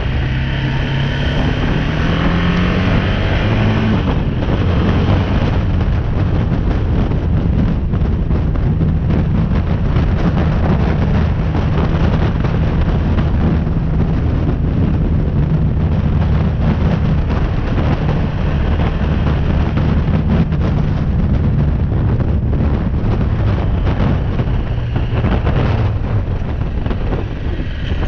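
BMW G310R's single-cylinder engine running under way, with heavy wind noise on the helmet or action-camera microphone. The revs rise over the first few seconds, then the engine holds a steady cruising note.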